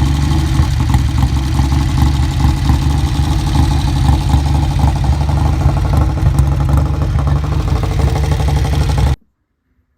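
Einhell two-stroke petrol hedge trimmer engine running steadily, cutting off abruptly about nine seconds in.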